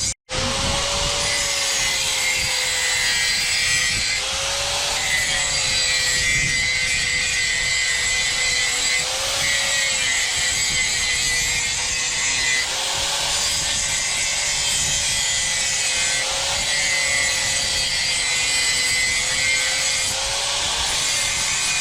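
Electric power tool running steadily on a workpiece with a continuous rubbing, cutting noise. Its motor whine rises briefly every few seconds as the load eases.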